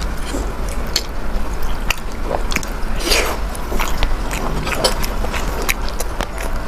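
Close-miked eating: biting and chewing food, with a string of short, wet mouth clicks over a steady background hiss.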